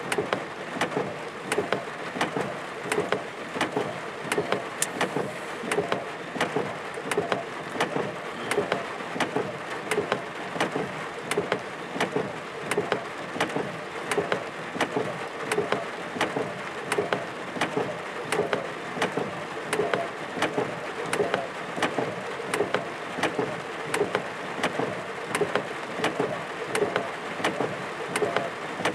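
Rain falling during a thunderstorm, with many sharp drops striking a hard surface close by, several a second, over a steady hiss.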